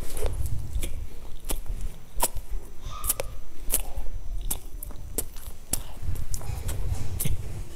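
Chewing and biting a crisp, flaky sesame-topped pastry close to the microphone: soft mouth sounds under sharp, irregular crackles of the crust.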